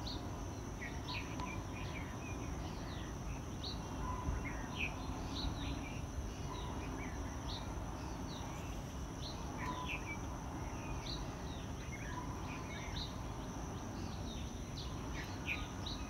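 Birds calling with repeated short, high chirps that slide down in pitch, over a steady high-pitched insect drone and a low background rumble.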